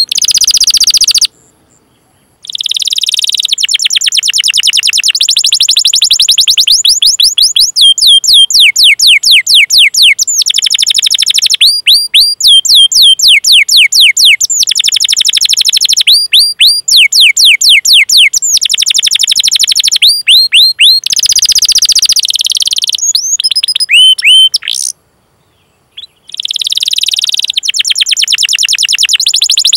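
Domestic canary singing loudly in long, fast trains of repeated falling 'cuit cuit' chirps that run together into rolling trills. The song breaks off briefly near the start and again near the end.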